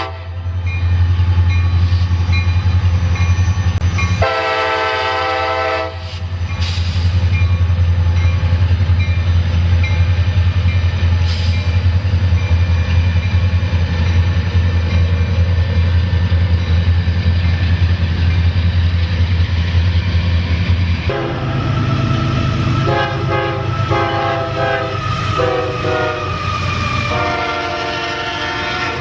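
Railroad locomotive's engine running with a steady low drone while its horn sounds: one blast of about a second and a half a few seconds in, then a run of shorter blasts ending in a longer one near the end.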